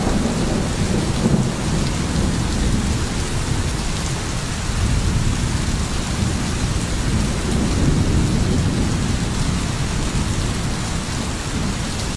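Heavy rain falling steadily, with low rumbles of thunder swelling now and then beneath it.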